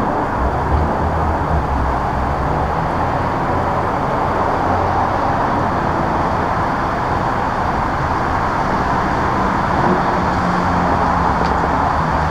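Steady road-vehicle noise: a constant rushing sound with a low engine hum beneath it.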